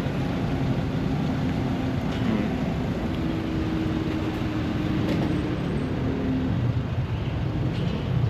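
Steady city street traffic, with vehicle engines running and passing.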